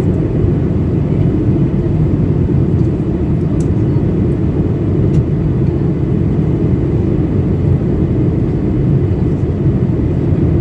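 Steady cabin noise of a Boeing 737-800 in flight during descent: the hum of its CFM56-7B engines and the rush of air over the fuselage, heard from a window seat and concentrated in the low end.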